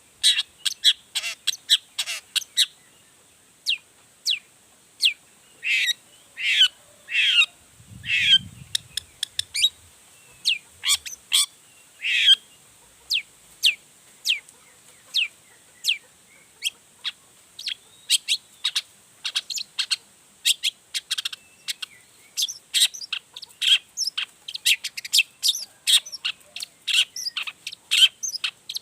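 Long-tailed shrike (cendet) singing a fast, varied string of short, sharp chirps, several a second, with a few longer, louder notes partway through. It is a male in full song, the kind played as a lure to make other shrikes answer.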